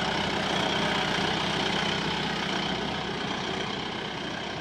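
Side-by-side utility vehicle's engine running steadily as it drives, easing off slightly near the end.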